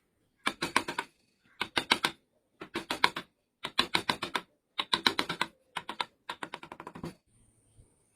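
Wood being worked with carving tools: six quick runs of sharp clicking taps, about a second apart, the last one longer.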